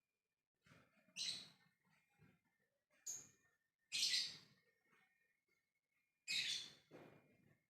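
Lovebird giving shrill chattering calls in four short bursts, a call to other lovebirds.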